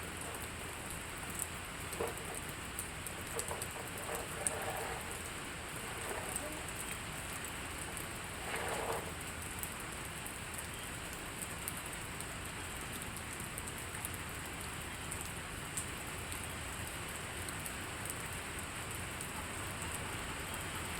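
Steady rain falling, an even hiss with the patter of scattered drops.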